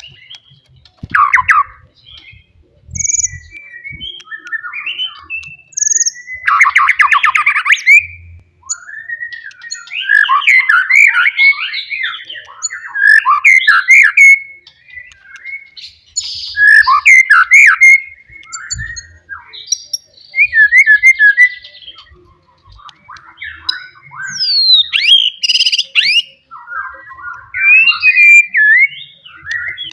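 White-rumped shama (murai batu) singing a loud, varied song of whistled and chattering phrases, each a second or two long, with short pauses between them.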